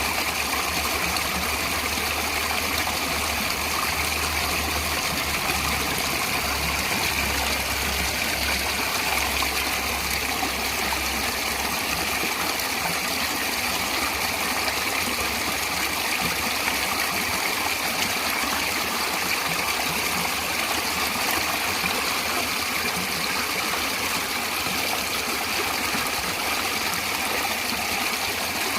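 Natural flowing water, a steady unbroken rush. A faint low hum underneath fades out about twelve seconds in.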